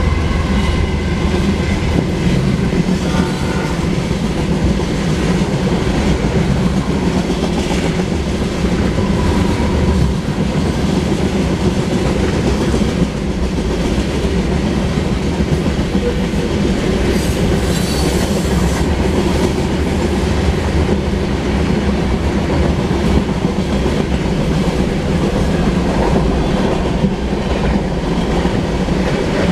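Mixed freight train rolling past at track speed, a loud, steady rumble with the rattle of steel wheels over the rails. The trailing GE Dash 9-44CW diesel locomotive goes by at the start, and a train horn's last note fades out in the first second.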